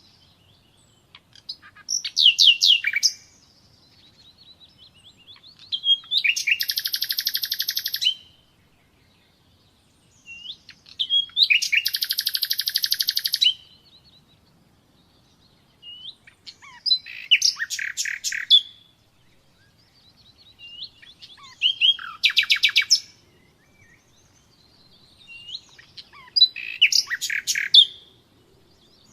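Common nightingale singing: six loud phrases of fast repeated notes, one about every four to five seconds, with soft single notes in the pauses between them.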